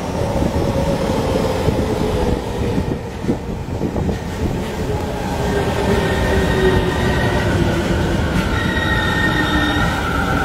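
Electric commuter train pulling into the platform and slowing to a stop: a steady low rumble with a whine that falls in pitch as it slows. High squealing comes in about halfway and grows louder near the end.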